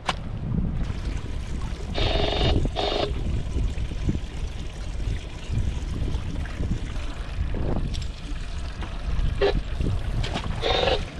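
Wind buffeting the microphone over water, a steady low rumble, with two short pitched sounds: one about two seconds in and one near the end.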